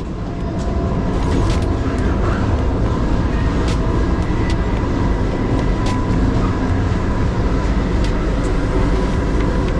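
Vande Bharat Express running, heard from inside the train: a loud, steady low rumble with a thin steady whine over it and scattered light clicks, growing louder about half a second in.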